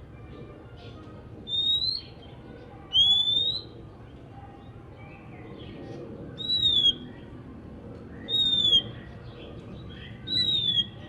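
Oriental magpie-robin singing: five loud, clear whistled notes spaced a second or two apart, the first two rising and the last three falling, with softer chattering notes in between.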